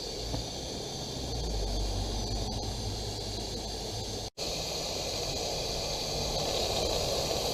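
Steady steam hiss from the blower of a coal-fired Roundhouse Lady Anne live-steam locomotive, drawing the fire while the engine stands. A low rumble sits under it for the first few seconds, and the sound breaks off for an instant about four seconds in before the hiss carries on.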